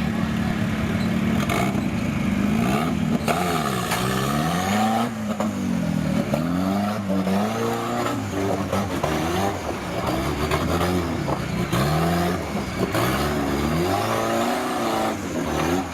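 Off-road 4x4 vehicle engine revving up and down over and over, about once a second, with a few sharp knocks in between.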